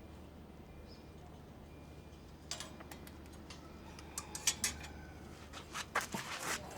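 Low steady hum. From about two and a half seconds in, irregular clicks, taps and knocks of hands working with hose and engine parts come in, thickest near the end.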